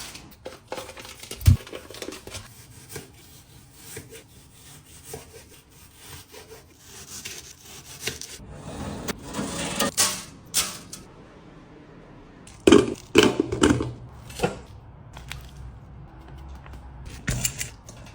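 Objects being handled: scattered knocks and clicks with some rubbing and scraping. There is a sharp knock about a second and a half in, and a cluster of louder knocks about two-thirds of the way through.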